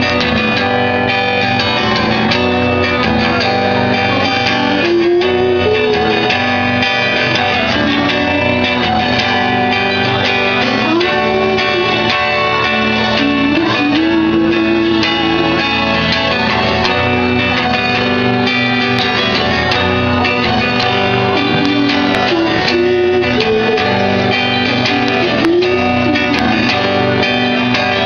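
A band playing live, with strummed guitars up front over a steady, dense, loud wash of music.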